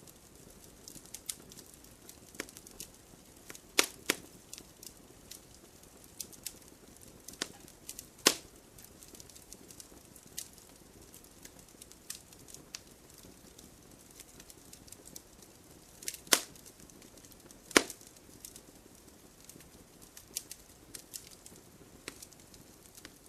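Fireplace fire crackling: irregular sharp pops and snaps over a soft hiss, with a few louder pops about four, eight, sixteen and eighteen seconds in.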